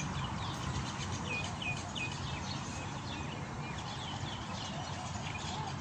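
Many small birds chirping: a dense run of short, quick chirps over a steady low background rumble.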